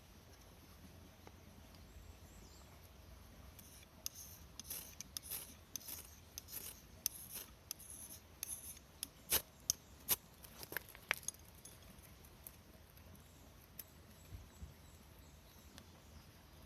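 A run of small, sharp clicks and scrapes lasting several seconds, the loudest a couple of crisp snaps near the middle: hands handling small metal or hard objects.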